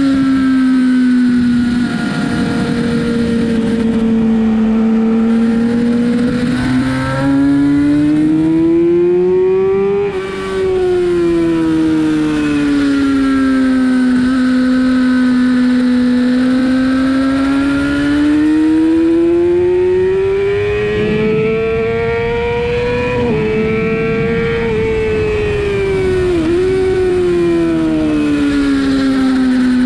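Sportbike engine running hard on a racetrack, its note climbing steadily under acceleration and falling off when braking, in long sweeps lap after lap. There is a short break in the note about ten seconds in and a brief dip in pitch near the end. Steady wind and road rush lies underneath.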